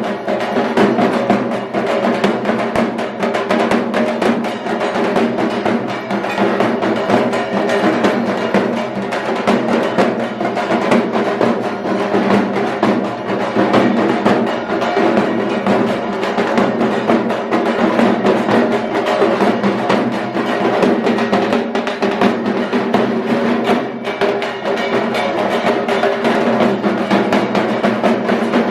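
Loud drum-driven music with continuous, rapid percussion strikes.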